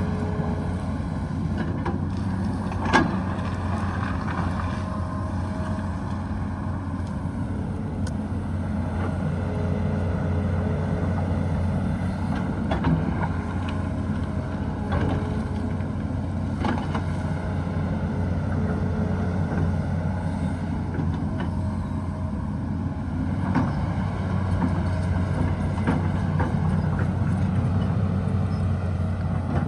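Hydraulic excavator's diesel engine running steadily under working load, with a pitched hydraulic whine that comes and goes. Scattered sharp knocks of the bucket on rock, the loudest about three seconds in.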